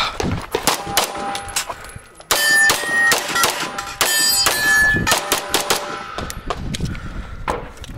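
Rapid pistol fire from a compensated 9mm Major Open-division race gun, shot after shot. Struck steel targets clang and ring out with a sustained metallic tone, loudest about two seconds in and again about four seconds in.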